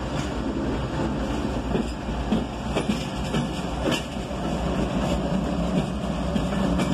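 Diesel locomotives of an approaching CSX intermodal freight train: a steady low engine rumble with a few sharp clicks from the rails.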